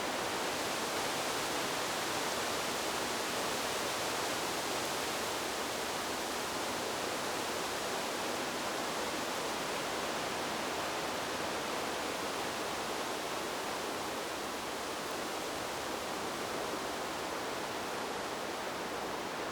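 Wind blowing through trees: a steady, even rushing hiss with no gusts or rustling bursts, easing slightly in level in the second half.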